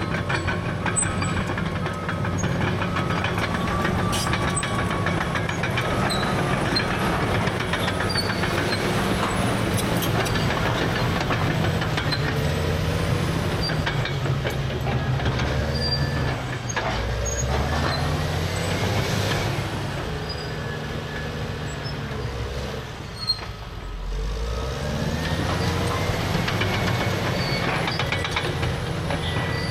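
Caterpillar D6R crawler dozer working: its C9 diesel running steadily under load over the clatter and squeak of its steel tracks. About two-thirds of the way through the engine note sags, a single sharp click is heard, and the engine then picks back up.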